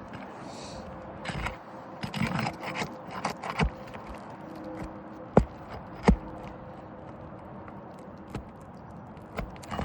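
Scraping and rustling on an asphalt shingle roof, then two sharp knocks about two-thirds of a second apart, over a steady background hum.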